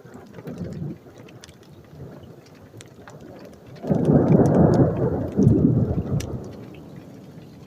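Thunder over steady rain: a faint rumble near the start, then a loud crash of thunder about four seconds in that rolls on for a couple of seconds in two surges and dies away.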